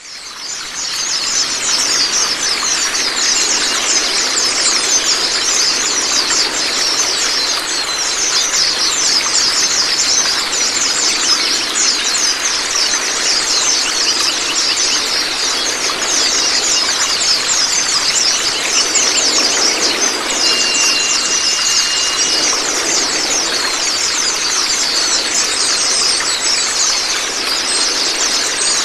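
Running, splashing water with a dense, continuous twittering of small songbirds over it, a masteran song track played as water therapy for white-eyes. A brief steady whistle sounds about two-thirds of the way through.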